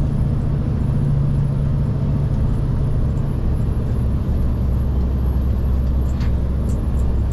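Scania P360 XT truck's diesel engine running steadily under way, with road noise. Its low drone drops to a deeper note about halfway through.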